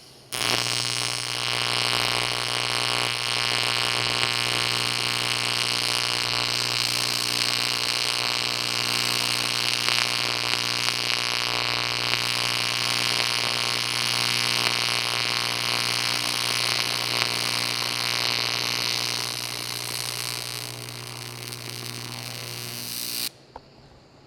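AC TIG welding arc on aluminum, a steady electrical buzz and hiss that strikes about half a second in. It drops in level about twenty seconds in, then cuts off suddenly near the end.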